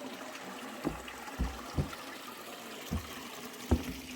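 Water running down from the mountain, trickling steadily, with a few dull low thumps every second or so.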